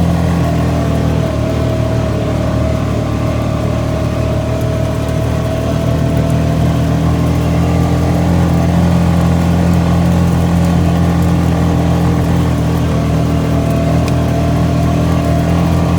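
ATV engine running steadily under way, a constant low drone with a fainter whine above it.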